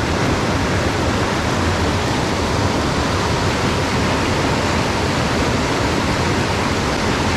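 Steady rush of a fast mountain headwater stream running over rocks, loud and even.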